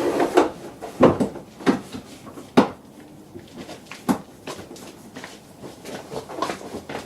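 Hard plastic interior trim being handled and fitted back into place, knocking and clicking at irregular intervals, with four sharper knocks in the first half.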